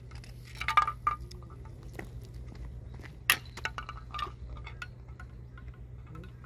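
Small metallic clinks and ticks of fishing tackle being handled, the sharpest about a second in and again a little past three seconds, over a steady low hum.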